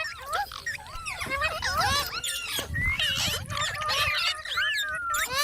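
Parrot chattering in a rapid run of short calls that rise and fall in pitch, with one longer wavering whistle near the end.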